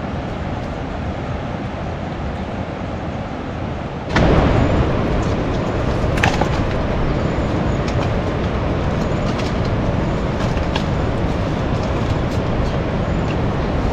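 Vehicle running with a steady rumble. About four seconds in it gets suddenly louder, and short rattles and knocks follow.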